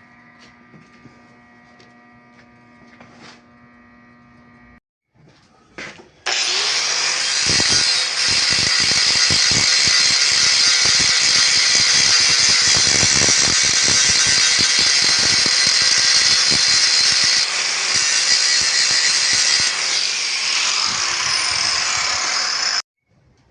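An electric power tool starts about six seconds in, spins up and runs steadily for about sixteen seconds, then cuts off abruptly.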